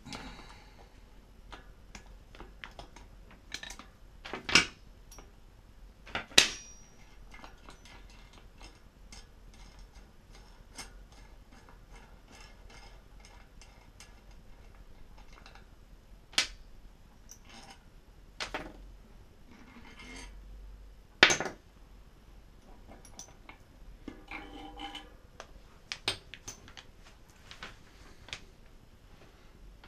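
Metal hub parts and tools being handled on a workbench: scattered small clicks and clinks, with a few sharp, louder knocks of metal on metal.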